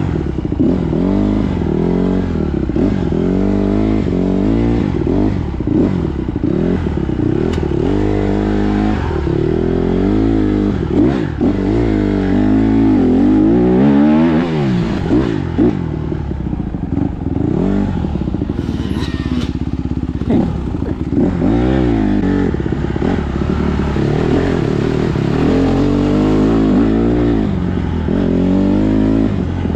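Dirt bike engine being ridden, its revs rising and falling continually as the rider works the throttle and gears.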